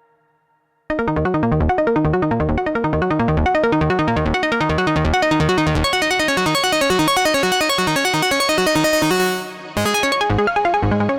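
Oberheim OB-6 analog polysynth playing a fast sequenced pattern of notes over a bass line, starting abruptly about a second in. It drops out briefly near the end, then starts again.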